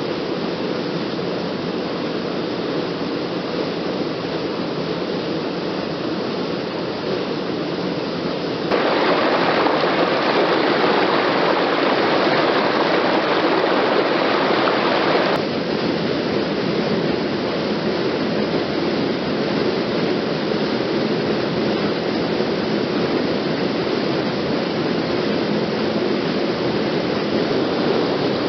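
Waterfall and stream water rushing as a steady hiss. It jumps suddenly louder and brighter about nine seconds in, then drops back partway about six seconds later.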